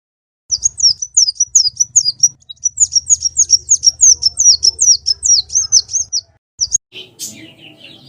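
Konin songbird singing a rapid run of sharp, high chirping notes, about four a second, each a quick downward slur; the run stops about six seconds in and gives way to softer, scratchy twittering. It is a konin lure song, the kind played to prompt a caged konin to sing.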